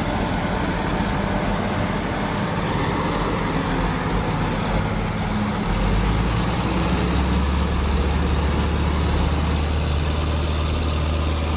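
Heavy truck engine running steadily. About halfway through, a deeper, stronger low note comes in.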